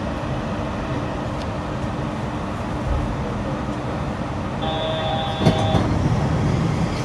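Yurikamome automated guideway train running, a steady rumble with a faint hum. About five seconds in, a brief steady high tone sounds for about a second, with a sharp knock in the middle of it.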